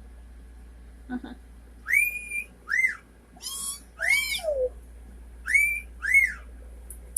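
Pet parrot giving a series of about six short whistled chirps, each rising then falling in pitch, beginning about two seconds in.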